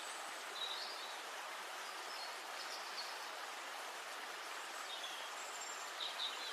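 Short, high bird chirps repeated through a steady outdoor hiss of river and forest ambience, with the loudest chirps near the end.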